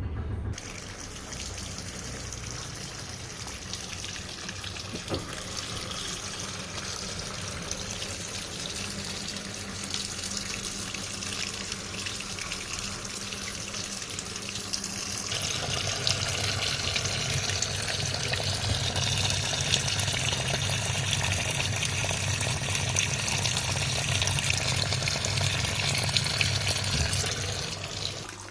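Sharp washing machine filling, water rushing steadily into the drum. About halfway through the rush gets louder and a low hum joins it.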